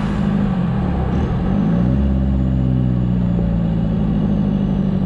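Toyota Hilux turbo diesel engine running through a straight exhaust with the muffler removed. Its revs dip briefly and then rise a little under two seconds in, holding steady after that.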